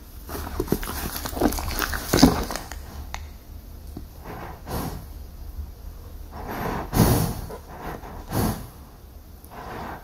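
Horse snorting and blowing hard through its nostrils: a quick run of snorts in the first three seconds, then three separate single snorts further on.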